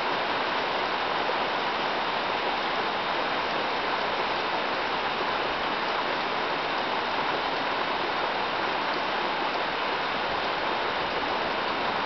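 Thunderstorm rain falling steadily, an even hiss with no thunder.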